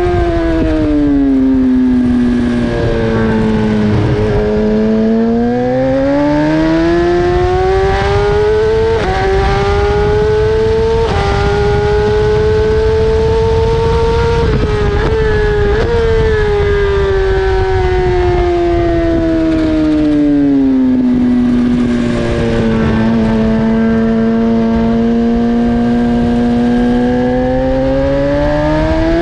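BMW S1000RR inline-four engine heard onboard at racing pace: revs climb with quick upshifts about a third of the way in, two short throttle blips on downshifts about halfway, then the pitch falls and holds low before climbing hard again near the end.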